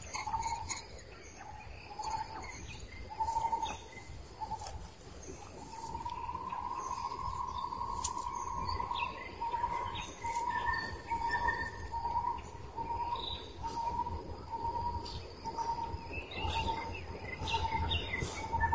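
Bird calls outdoors: one clear short note repeated over and over at the same pitch, about once or twice a second, drawn out into one longer note partway through, with scattered short higher chirps from other birds.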